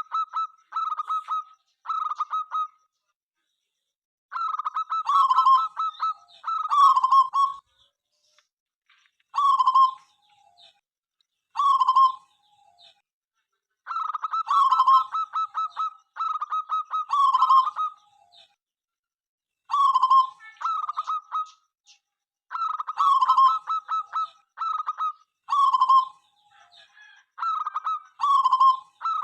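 Zebra dove (perkutut) cooing: repeated short phrases, each a quick run of pulsed notes, with brief pauses between them.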